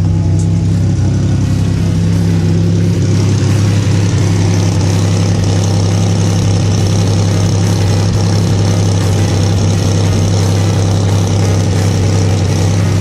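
Buick Grand National's turbocharged 3.8-litre V6 idling steadily, with an exhaust leak still present at the driver-side manifold flange.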